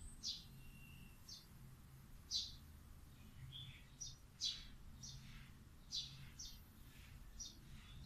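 Faint, short, high chirps of small birds, about one a second at irregular spacing, over a faint low steady hum.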